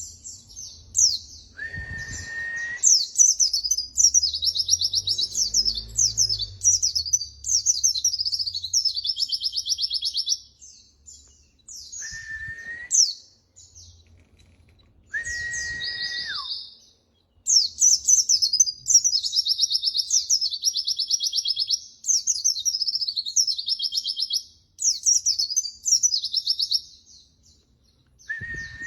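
White-eye (pleci) song: rapid, high-pitched chattering trills in bursts of a few seconds, separated by short pauses. A few long, steady, lower whistled notes come in about two seconds in and again around twelve and sixteen seconds.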